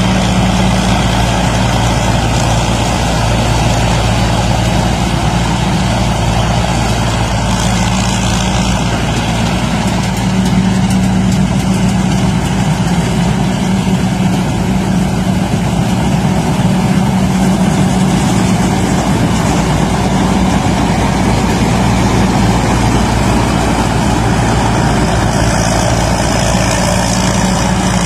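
Rice combine harvester running steadily while harvesting: a constant engine drone with an even mechanical rush over it.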